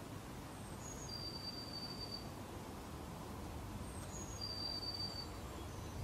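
Quiet garden ambience: a low, steady background with two thin, high, drawn-out bird whistles of about a second each, one early and one past the middle, each preceded by a shorter, higher note.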